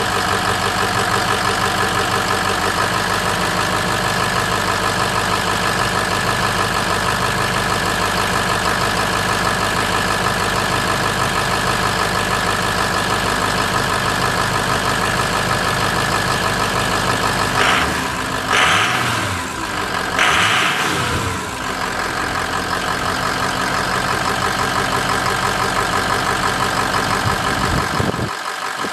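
Vehicle engine idling steadily, revved briefly twice a little past the middle. Its low rumble drops away shortly before the end.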